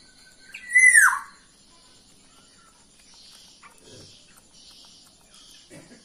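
A bird gives one loud call about a second in, a clear whistle that slurs downward in pitch, over faint steady high-pitched tones.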